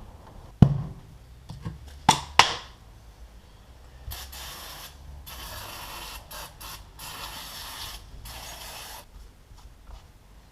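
Three sharp knocks in the first few seconds, then a series of hissing spray bursts of varying length.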